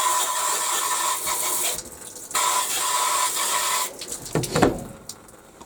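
Water jetting from a tap or shower head onto a washing-machine part in two bursts of about a second and a half each, rinsing it.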